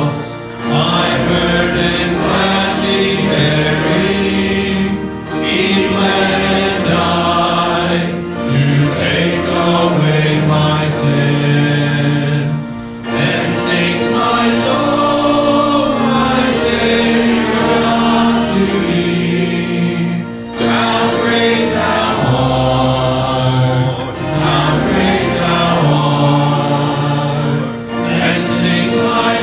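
A choir singing a hymn with musical accompaniment, in sustained phrases that break briefly every few seconds.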